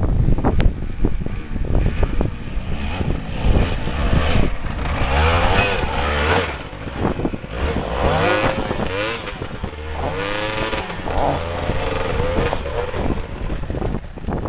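Dirt bike engine revving, its pitch climbing and falling over and over, with a steady low running note underneath.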